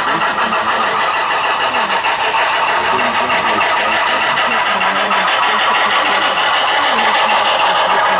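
HO-scale model steam train running, a steady dense rumble of its locomotives' sound and rolling wheels, with faint voices in the background.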